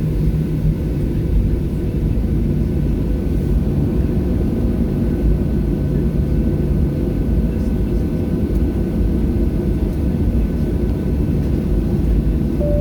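Boeing 737-700's jet engines heard from inside the cabin at low power before takeoff: a steady, loud rumble with a faint steady whine above it.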